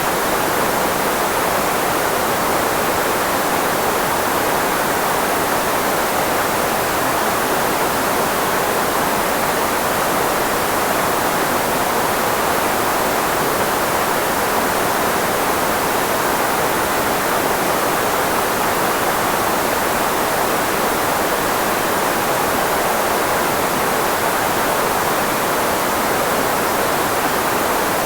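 Steady filtered white noise for speech masking, concentrated in the range of the human voice, with no change or events.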